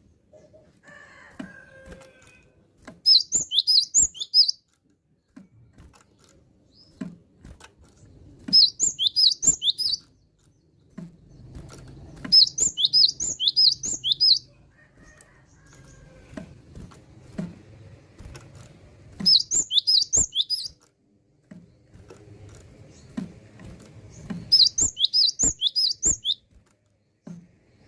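Cinereous tit (gelatik batu) singing: five short bouts of rapid, sharp, high whistled notes, each bout lasting about a second and a half, with soft clicks in the pauses between them.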